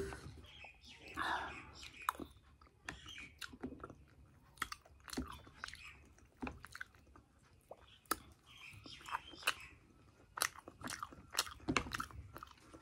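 Close-up chewing of deep-fried semolina (suji) puri dipped in potato curry, with many short, irregular crunches and wet mouth sounds.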